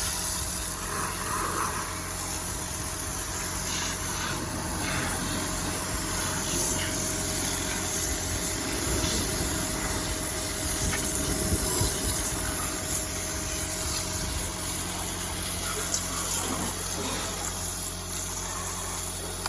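Water spraying and splashing over the engine bay of an E12 Nissan Note e-POWER NISMO, over the steady sound of its engine running.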